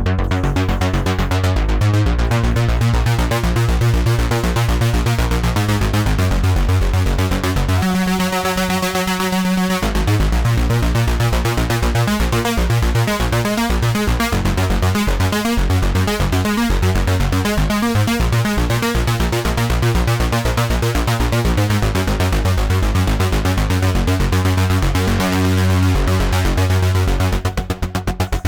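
Cherry Audio P-10 software polysynth playing an arpeggiator preset: a fast, evenly repeating synth note pattern over a low bass line. About eight seconds in, the bass drops out for some two seconds under a held, buzzy chord, then the pattern resumes.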